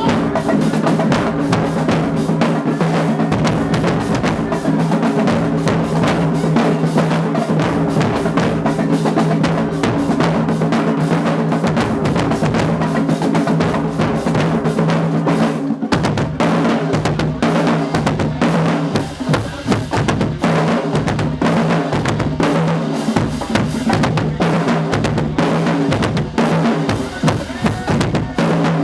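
Marching band drumline playing a fast, dense cadence of snare and bass drums over a steady low tone. The beat breaks off briefly about halfway and then picks up again.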